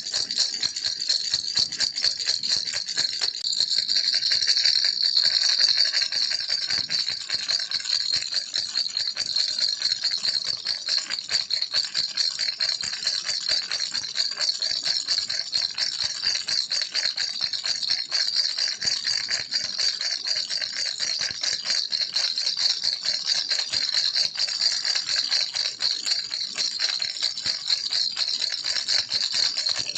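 Baby rattle shaken without a break, a dense, fast, crisp clatter that swells slightly a few seconds in.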